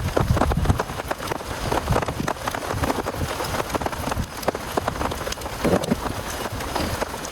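Heavy rain falling, with many irregular sharp drop hits over a steady hiss and low rumbling gusts, strongest in the first second.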